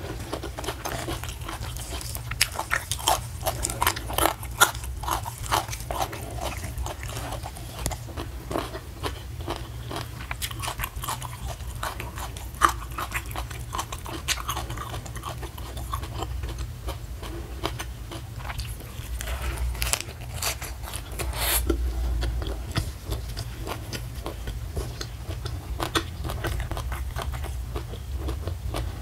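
Close-miked eating: crisp crunching and chewing of raw leafy greens rolled with sambal, with wet mouth noises. The crunches come thick and fast in the first several seconds, then thin out into slower chewing with a few louder crackles.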